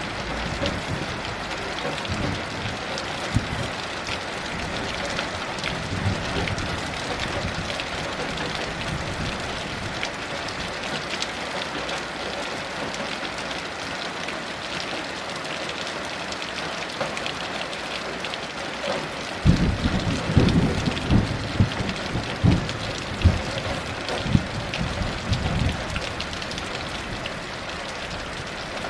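Heavy rain falling steadily, with thunder rumbling low for several seconds about two-thirds of the way through.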